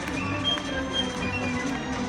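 Live orchestral music with held notes and moving melodic lines.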